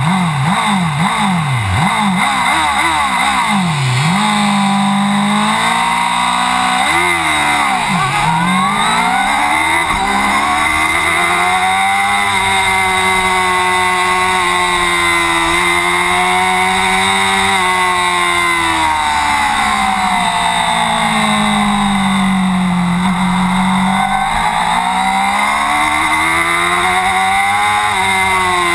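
Racing motorcycle engine at full throttle. Its pitch climbs and drops sharply several times in the first few seconds as it shifts up through the gears, then rises and falls more slowly as the revs change through the corners, over a steady rush of wind.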